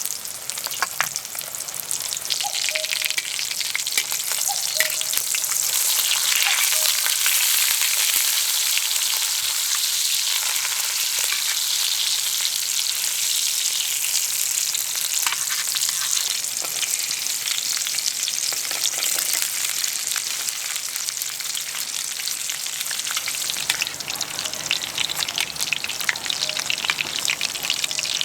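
Food frying on a hot griddle: a steady sizzle full of fine crackling pops, louder from about six seconds in until near the end.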